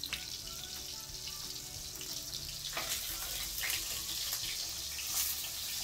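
Hotdogs frying in a pan of hot oil, a steady sizzle, with a few faint clicks in the middle.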